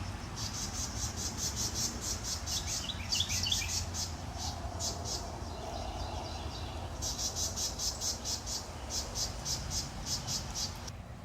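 Rapid, high-pitched chirping in repeated trains of quick pulses, with a few short rising chirps about three seconds in, over a steady low rumble.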